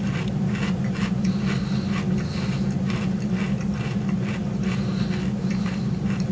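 A person chewing crunchy Catalina Crunch dark chocolate cereal close to the microphone: irregular crunches a few times a second, over a steady low hum.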